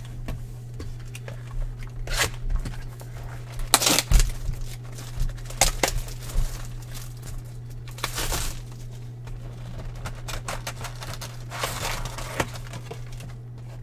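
A trading card pack's wrapper being torn open and crinkled in several short rips and rustles, over a steady low hum.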